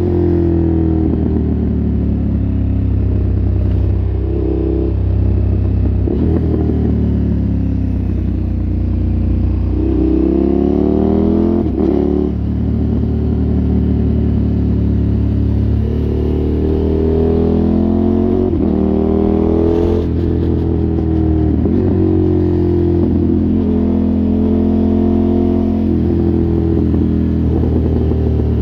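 KTM 1290 Super Adventure S's V-twin engine through an aftermarket exhaust, pulling hard with its revs rising and then dropping sharply at gear changes several times.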